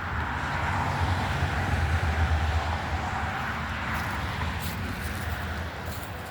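A road vehicle passing by: a steady rushing rumble that grows louder to a peak about two seconds in, then slowly fades.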